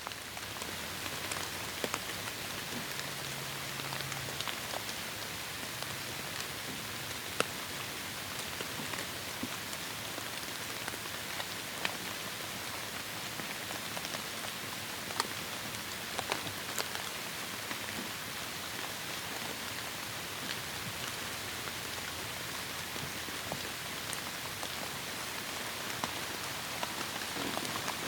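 Heavy rain falling steadily in a tropical forest, a dense even hiss of rainfall with scattered sharper drop hits standing out from it.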